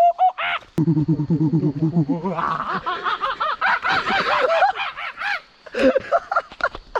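A group of men laughing. First comes a low, rapid, pulsing laugh, then a couple of seconds in, several higher laughs overlap it.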